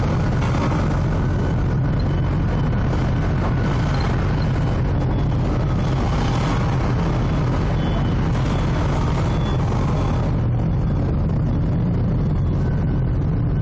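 Heavy diesel engine noise droning steadily at a low pitch, with faint short high tones now and then over it.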